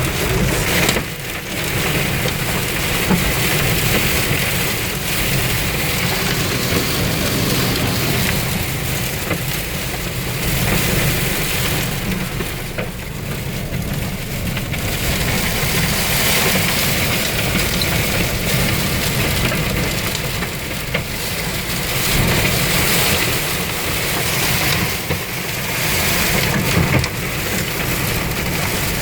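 Violent wind storm: a dense, steady roar of wind-driven rain beating on a car, heard from inside it, swelling and easing in gusts.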